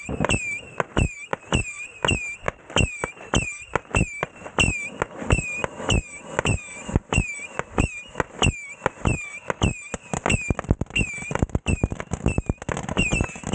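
Consumer firework cake firing a rapid string of shots, about three a second, each with a short whistle. Near the end the shots give way to a faster, lighter crackle.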